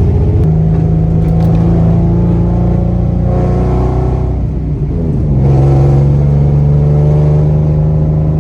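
Nissan 350Z's 3.5-litre V6 engine and exhaust running under way at steady revs. About five seconds in, the engine note drops and then settles again, as at a gear change.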